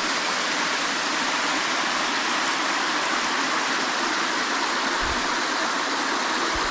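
Creek water rushing steadily down a rocky cascade chute: a continuous, even rush of falling water.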